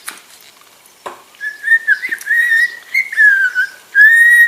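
Budgerigar whistling a warbling, wavering tune that ends in a loud held note.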